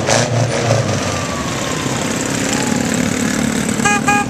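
Small engines of light-decorated parade motorbikes running as they ride past, with a steady engine tone coming in about halfway through. Two short beeps sound near the end.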